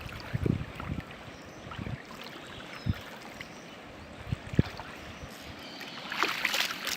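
Water sloshing and lapping, with a few scattered dull knocks and a short patch of crackling clicks near the end.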